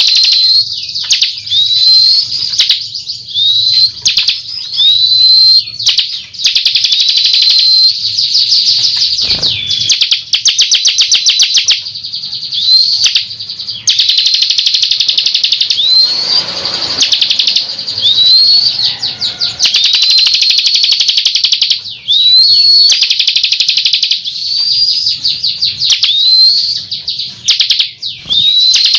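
Ciblek kristal singing without pause: loud, high, fast trills alternating with short upswept whistled notes, repeated over and over, as in a bird-lure song recording.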